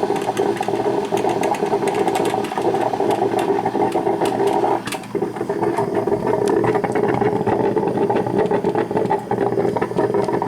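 Black & Decker thermal carafe drip coffee maker brewing: a steady, crackly running sound that dips briefly about five seconds in, near the end of its brew cycle.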